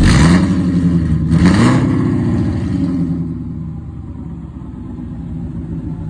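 Gen 2 Ford Coyote 5.0 V8 crate engine with long-tube headers running out of the car: two quick throttle blips, at the start and about a second and a half in, then it settles back to a steady idle.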